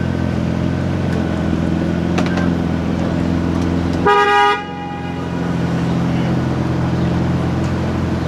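A car engine idling steadily, with one short car-horn toot of about half a second, a little after four seconds in.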